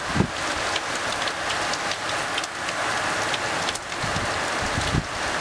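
Heavy thunderstorm rain pouring down steadily, a dense even hiss with scattered sharp drop impacts close by. There are a few brief low thumps, one just after the start and a couple near the end.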